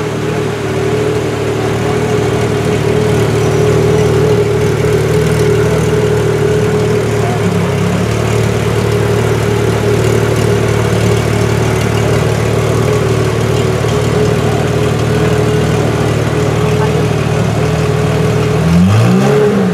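Pagani Zonda F Roadster's Mercedes-AMG 7.3-litre V12 idling steadily, with a brief blip of the revs rising and falling near the end.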